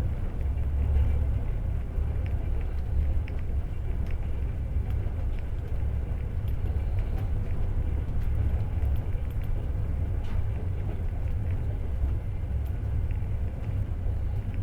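Passenger train carriage running on the rails, heard from inside: a steady low rumble with a few faint, irregular clicks.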